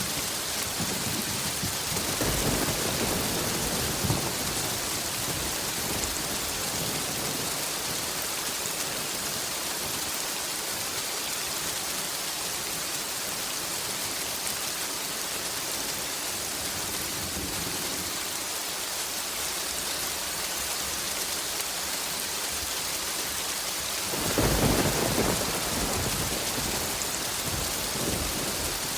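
Steady rain falling, with a low thunder rumble a couple of seconds in and a louder, longer rumble near the end.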